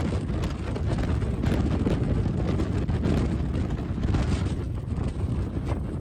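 Wind buffeting the microphone: a steady, low rumbling rush with constant small gusts.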